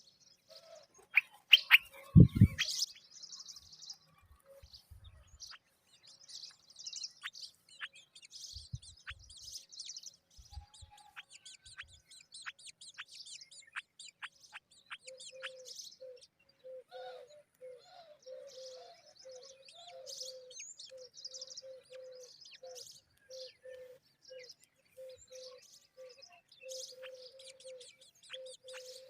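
Small birds chirping and twittering, with many short, quick, high notes sweeping downward. A few loud knocks come near the start, and from about halfway a low note repeats steadily, about twice a second.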